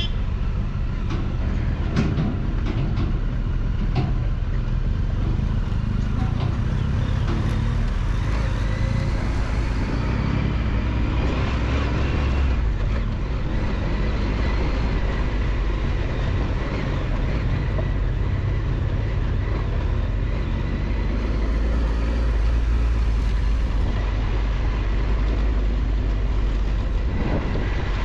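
Triumph Tiger 1200 XCX motorcycle running steadily on a rough dirt road, its engine note mixed with a heavy low wind and road rumble, with a few sharp knocks in the first few seconds and small rises and falls in revs later on.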